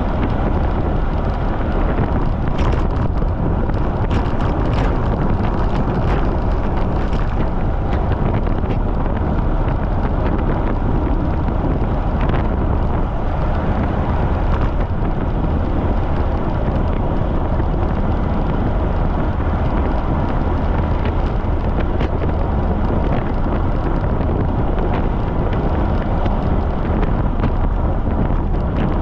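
Strong wind buffeting the microphone of a camera on a bicycle ridden at speed: a steady, loud, low rush of noise. A few faint clicks come through in the first several seconds.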